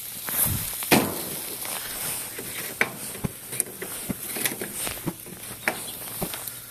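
Cookware and utensils being handled, giving irregular clicks and knocks, the loudest about a second in, over a faint steady hiss.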